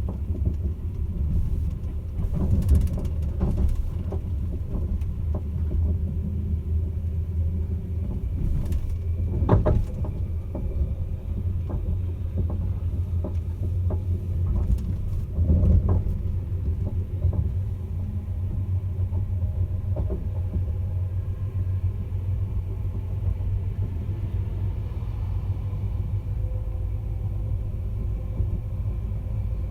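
Caledonian Sleeper train running: a steady low rumble with a few sharp knocks, the loudest about ten and sixteen seconds in.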